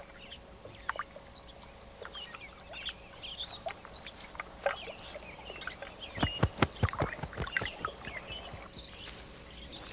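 Birds chirping and whistling in short, high calls, with a quick run of sharp knocks about six to seven seconds in.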